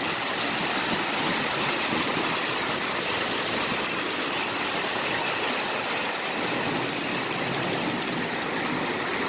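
Heavy rain pouring down, a steady dense hiss that neither builds nor breaks.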